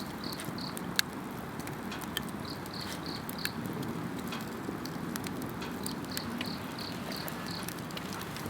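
Wood campfire crackling with scattered sharp pops, one louder pop about a second in, over a steady low rush. Insects chirp throughout in short runs of evenly spaced high chirps, about four a second.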